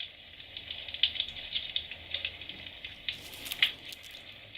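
Electric fireplace's built-in crackling-firewood sound effect, a steady stream of small irregular crackles from its small speaker, with a couple of louder snaps a little past three seconds in.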